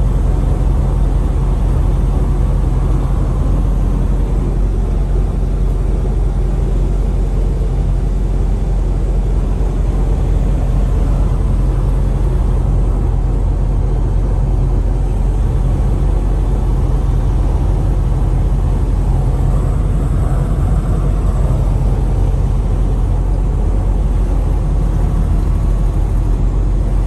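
Semi truck's diesel engine and road noise, a steady low drone heard from inside the cab while driving at highway speed.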